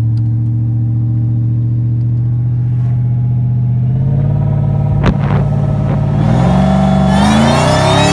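1999 Ford F-150 SVT Lightning's supercharged V8 running steadily, then accelerating from about four seconds in, with a sharp click around five seconds. Over the last two seconds the Eaton supercharger's high-pitched whine rises loudly with engine speed, heard from the cab with the window down.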